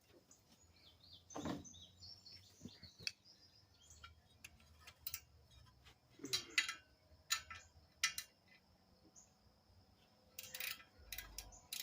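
Faint metallic clicks and clinks of wrenches and sockets working on bolts, coming in scattered bursts, with short bird chirps in the first few seconds.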